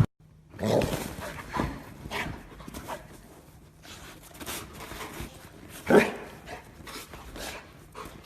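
A dog making short, separate sounds with gaps between them, the loudest about six seconds in.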